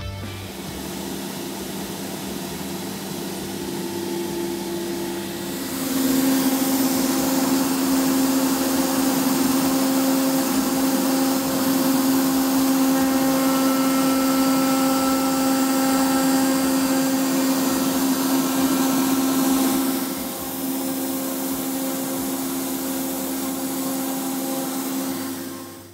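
CNC router spindle running and routing a carved design into a board, a steady machine whine over cutting noise. It gets louder about six seconds in and a little quieter after about twenty seconds.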